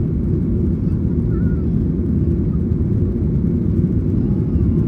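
Steady low roar inside the cabin of a Boeing 737-900ER early in its climb: the CFM56-7B engines at climb power and the rush of air along the fuselage.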